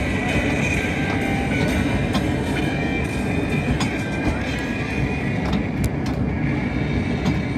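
Amusement-park train running along its track, heard from aboard: a steady low rumble of the cars rolling, with a few light clicks.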